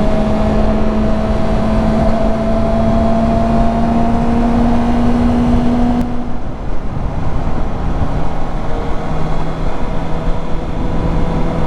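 Honda CB650F inline-four motorcycle engine running while riding, with wind rush over the microphone; its note climbs slowly for about six seconds, then drops to a lower steady note.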